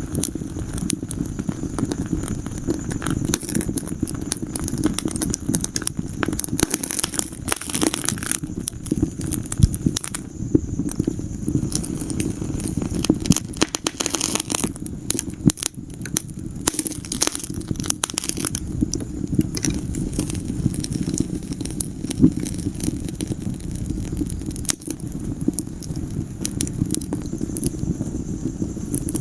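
Wood fire crackling in a fireplace: many sharp pops and snaps scattered over a steady low rumble of burning.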